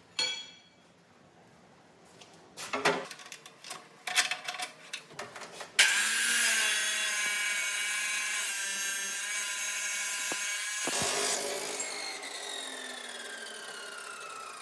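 An electric grinder starts suddenly, runs steadily for about five seconds, then is switched off and winds down with a slowly falling whine. A few knocks and clinks come before it starts.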